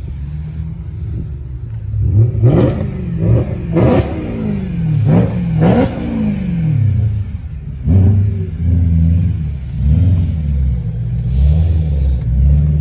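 Car engine being revved several times in quick succession, each rev climbing sharply in pitch and dropping back, then settling into steadier running and a low idle near the end.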